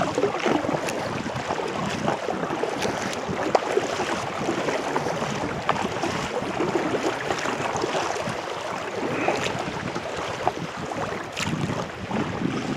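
Sea water splashing and lapping around a kayak, with many small drips and splashes.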